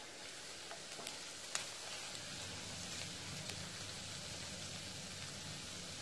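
Squid roast frying in a nonstick pan with a steady faint sizzle, and a few sharp clicks of the spatula against the pan in the first two seconds.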